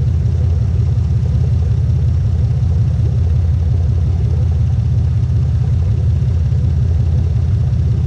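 A vehicle engine running steadily, a loud, even low rumble with no revving.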